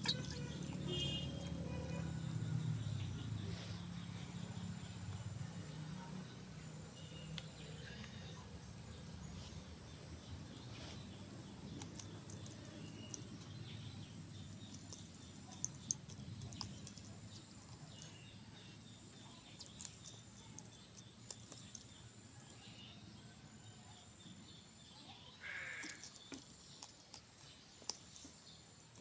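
Insects giving a steady, unbroken high-pitched drone over low outdoor background noise, with a few faint clicks.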